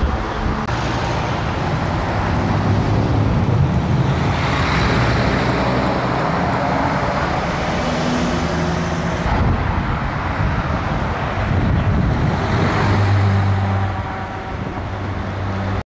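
Road traffic of heavy trucks driving past, their diesel engines droning low and swelling as each one passes, over steady tyre and road noise; the sound cuts off suddenly near the end.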